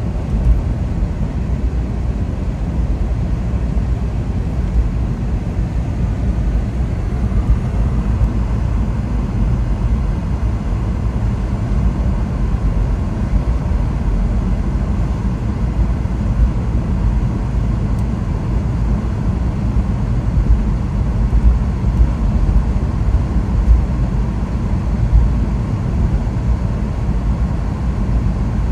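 A car driving at a steady pace: a constant low rumble of engine and road noise.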